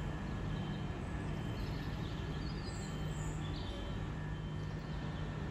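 Steady low hum of a Class 375 electric multiple unit standing at the platform, over general station background noise, with a few faint bird chirps about halfway through.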